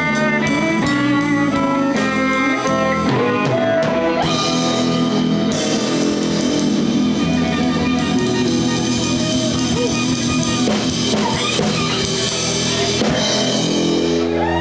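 Live blues band playing an instrumental passage: electric guitar over drums and bass, with a bright wash of cymbals through the middle.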